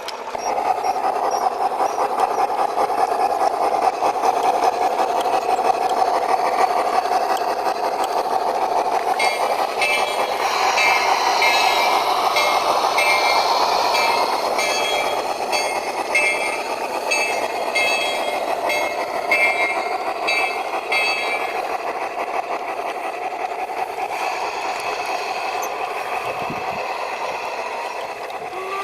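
Sound effects from a G-scale model train's onboard sound system: a steady locomotive running sound. From about a third of the way in to about two-thirds, a rapid, evenly repeated high tone plays over it.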